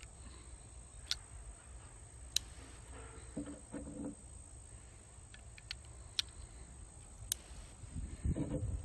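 Sharp metallic clicks of a Uberti Lightning .38 Special revolver being loaded through its loading gate on half cock: cartridges going in and the cylinder turned chamber by chamber. There are four clear clicks spaced a second or more apart, fainter ticks in between, and soft handling noise near the end.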